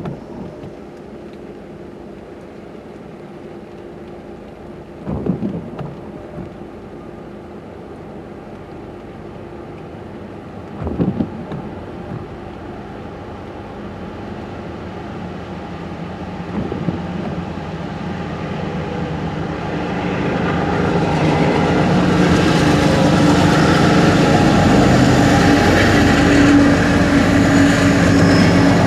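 Rain on a car while a train hauled by two Norfolk Southern diesel locomotives draws near. Its engine and rail noise builds from a little past halfway and is loud for the last third. In the first half a short squeak repeats about every six seconds.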